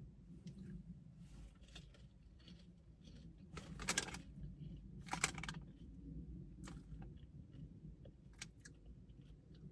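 Faint chewing of a crunchy snack: scattered small crunches and clicks, with two louder crunches about four and five seconds in.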